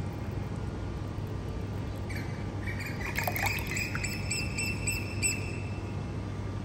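Small birds chirping, with a quick run of repeated high notes in the middle, over a steady low background hiss.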